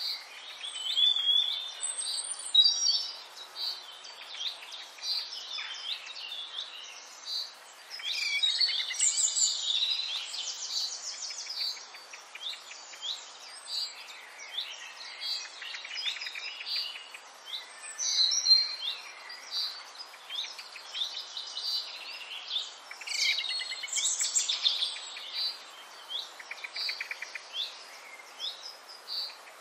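Several songbirds singing, with overlapping high chirps, whistled glides and quick trills.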